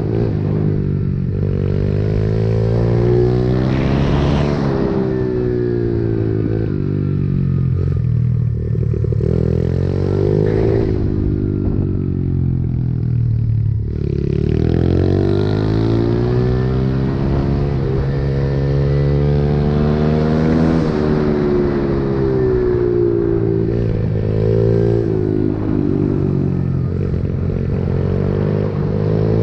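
Pit bike engine running hard, its revs climbing under throttle and dropping off again several times in succession.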